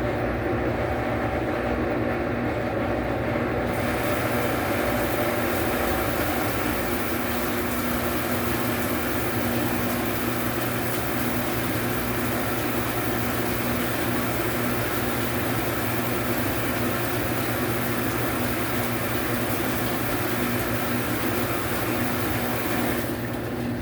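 Washing machine running with a steady mechanical hum. About four seconds in a hiss joins it, stopping shortly before the end.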